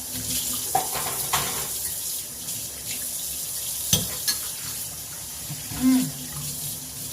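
Tap water running into a sink while a cup and spoon are rinsed, with a few sharp clinks. A brief low tone about six seconds in is the loudest moment.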